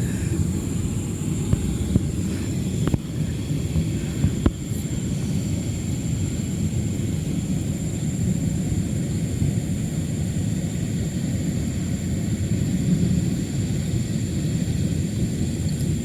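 Steady low outdoor rumble, with a thin high steady tone above it and two faint clicks about three and four and a half seconds in.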